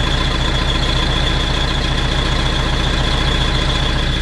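Tractor engine idling steadily, with a constant high-pitched whine over it that the owner puts down to the alternator belt.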